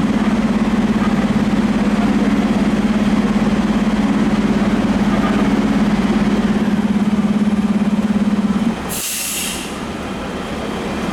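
Fire apparatus diesel engine running with a steady, fast-pulsing drone that drops away near the end, followed by a short hiss of released air, as from the truck's air brakes being set.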